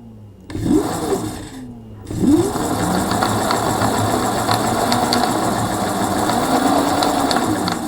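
Mercane Wide Wheel electric scooter's rear hub motor spins up briefly, then spins up again about two seconds in and keeps running, its whine buried under a loud, dense rattling clatter. It sounds terrible, and the owner suspects a loose bolt or part spinning around inside the motor.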